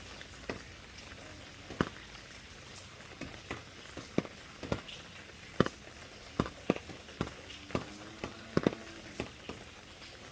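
Raindrops dripping and tapping irregularly on a surface, single sharp drips at uneven intervals over a soft steady hiss of rain.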